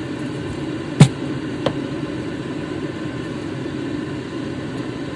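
A steady low mechanical hum, like a fan or air conditioner running, with one sharp tap about a second in and a fainter tick shortly after.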